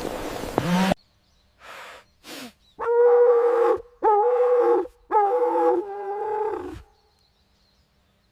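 An animal calling three times: long, steady-pitched cries of about a second each, following a louder, rougher animal sound that cuts off about a second in.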